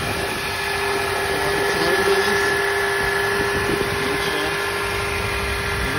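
2004 Honda Accord's 2.4-litre four-cylinder engine idling steadily, heard from beneath the car right after start-up on a freshly replaced and refilled oil pan.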